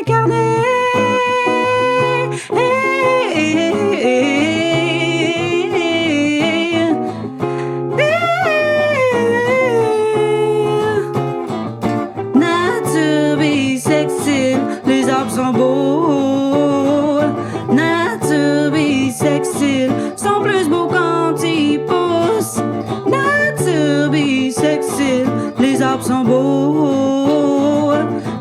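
Band music: a voice singing a melody over plucked guitar.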